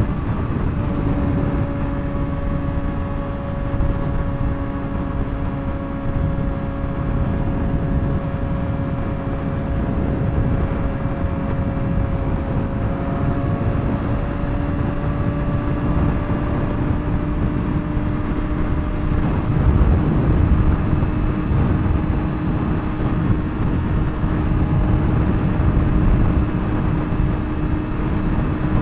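2007 Suzuki GSX-R600's inline-four engine through a straight-pipe exhaust, cruising at a steady highway speed, its pitch nearly level with a slight rise about halfway through. Heavy wind rumble runs underneath.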